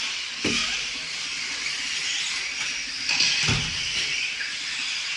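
Radio-controlled 2WD stadium trucks racing around the track: a steady high-pitched hiss of their motors and tyres, with two low thumps about half a second and three and a half seconds in.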